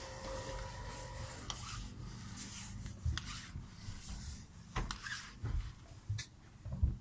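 Scattered light knocks, low thumps and rubbing noises, irregular and unrhythmic, with a faint steady hum that stops about a second and a half in.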